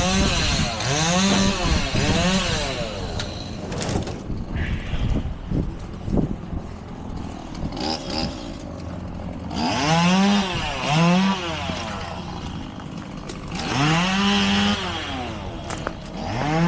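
Two-stroke chainsaw revved in short bursts, the engine pitch rising and falling back to idle, in pairs about a second apart several times, idling in between.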